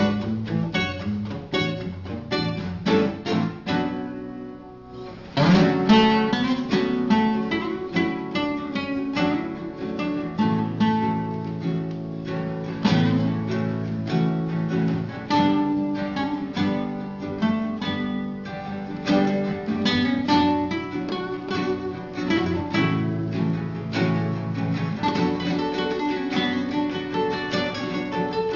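Acoustic guitar playing an instrumental piece, fast picked notes over chords. About four seconds in it drops away briefly, then comes back with a loud strummed chord.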